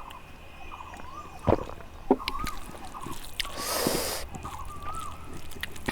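Eating noises from a mukbang: a few small clicks and a noisy slurp about three and a half seconds in, with short wavering bird chirps in the background.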